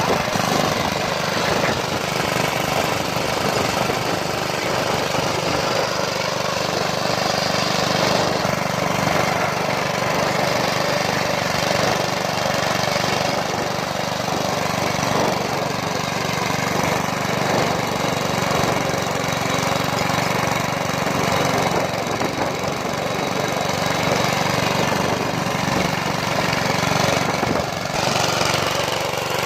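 Diesel locomotive engine running steadily, a fast, even throb over a low drone.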